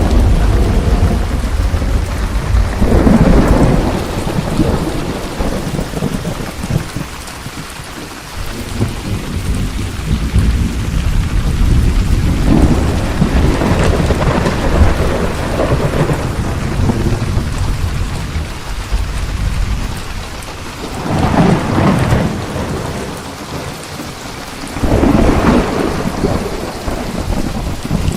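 Steady heavy rain with rolling thunder: deep rumbles swell and fade several times, with louder claps about three seconds in, in the middle, and twice near the end.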